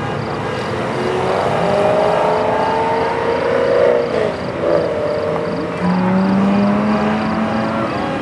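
Sports car engine accelerating, its pitch climbing gently, dropping briefly about four seconds in and then climbing again.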